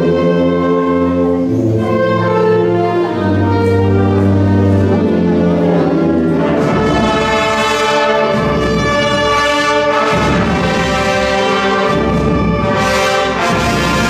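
Live concert music from an instrumental ensemble with prominent brass, playing long held chords at first and moving into busier passages about halfway through.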